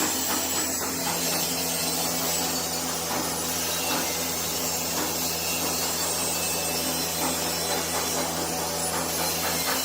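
A power tool running steadily with a rasping sound, with scattered clicks and taps over it.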